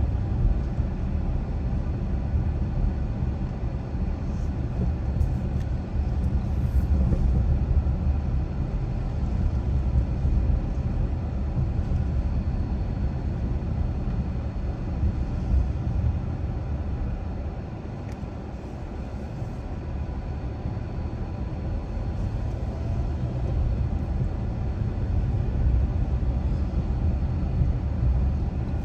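A car driving, a steady low rumble of road and engine noise that eases off for a few seconds past the middle and then builds again.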